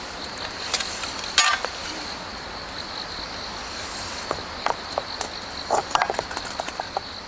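Autumn grass insects (crickets) chirring steadily at one high pitch, with scattered short clicks and knocks over it.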